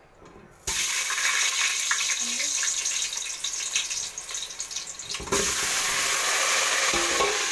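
Cut potato pieces dropped into hot oil in a steel pot, sizzling with a loud hiss that starts suddenly about a second in and grows louder again about five seconds in.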